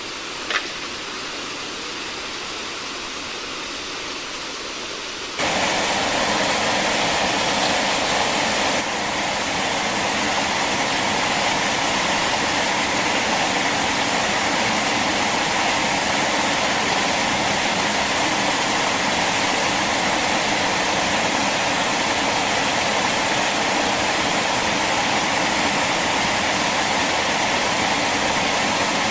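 Steady rush of flowing water, like a stream or small waterfall, which gets louder about five seconds in and then holds steady. A brief click sounds near the start.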